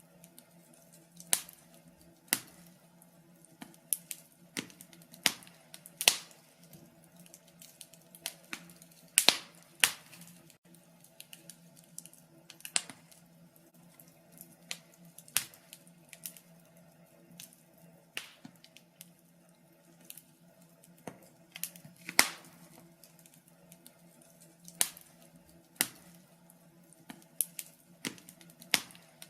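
Wood fire crackling in a fireplace: irregular sharp pops and snaps, about one every second or two, with a few louder pops, over a faint steady low hum.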